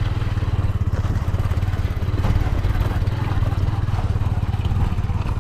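Motorcycle engine running steadily at low revs, an even rapid putter without revving up or down.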